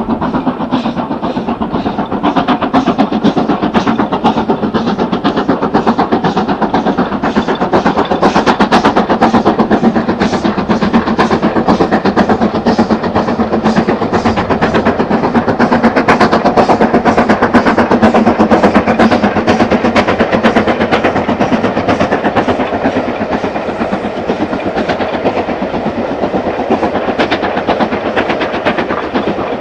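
LMS Black Five steam locomotive hauling a train past, with its rapid exhaust beats and the clatter of wheels over rail joints. The sound is loudest through the middle and eases off near the end.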